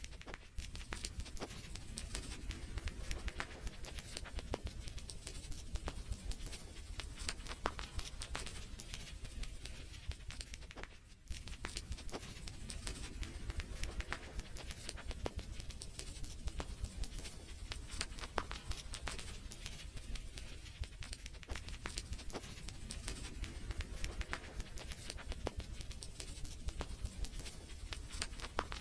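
Wood fire crackling, with many irregular sharp snaps and pops over a steady low rumble, and a brief lull about eleven seconds in.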